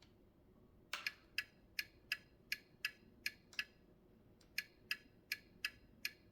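Turn-signal ticking from a Turbo Racing C50 micro RC semi truck: even clicks about three a second, in two runs with a pause of about a second between them.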